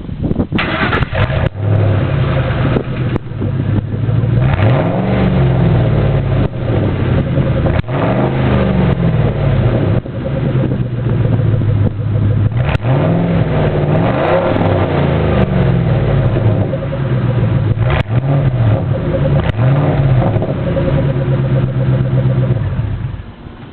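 2001 Ford F-150's 4.6-litre Triton V8 running with no muffler, only a short length of pipe in its place: a loud idle broken by several quick throttle blips, each revving up and falling back.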